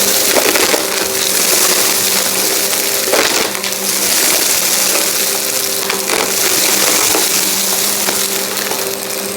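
Vacuum cleaner running with a steady motor hum and airflow hiss, sucking up crunchy debris that crackles and clicks as it is pulled in.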